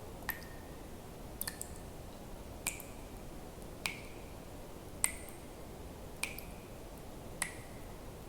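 Water drops falling one at a time into water, a sharp plink about every 1.2 seconds with a brief ringing tone after each, one pair landing close together.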